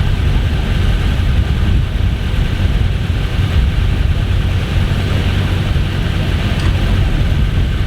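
Vauxhall Nova 1400 rally car's four-cylinder engine running at steady revs, with no rise or fall in pitch.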